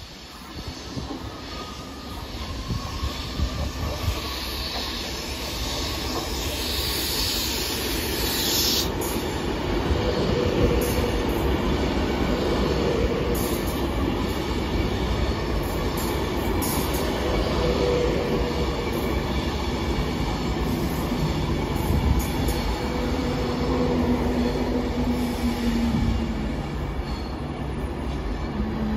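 A train moving through the station, growing louder over the first several seconds and then running steadily, with rail clatter and wheels squealing on the track.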